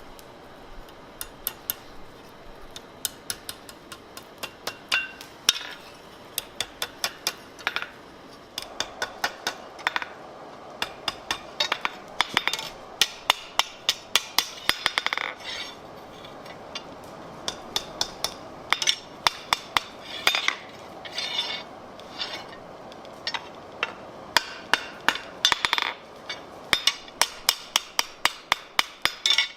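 Blacksmith's hammer striking steel on an anvil, in quick runs of sharp, ringing blows with short pauses between them.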